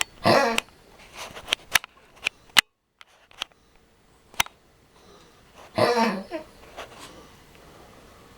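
Lhasa Apso coughing: two short rough coughing bursts, one at the start and one about six seconds in, with a few sharp clicks between. This is the chronic cough of a collapsing trachea.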